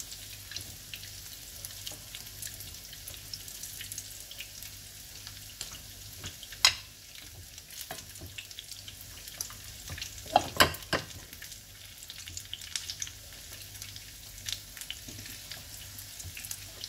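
Gram-flour-battered lamb chops shallow-frying in oil on medium-low heat: a steady sizzle full of small crackles as the batter cooks. A few louder clicks come about seven seconds in and again around ten to eleven seconds in.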